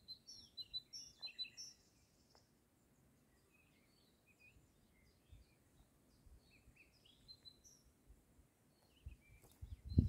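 Songbirds chirping in short, high notes, a busy cluster in the first two seconds and then scattered calls. Near the end a low rumble starts underneath.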